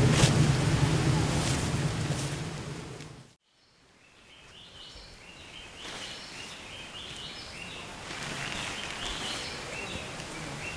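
Wind buffeting the microphone for about three seconds, cut off abruptly. After a brief silence, quieter outdoor ambience fades in, with birds chirping in short repeated high calls.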